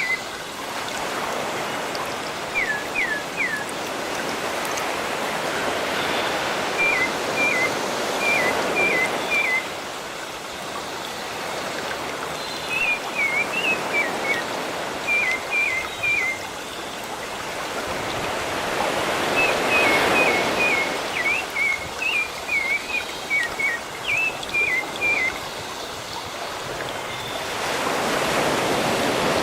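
Sea waves washing in, the surf noise swelling every several seconds, with a small bird repeating quick chirps in runs of three or four.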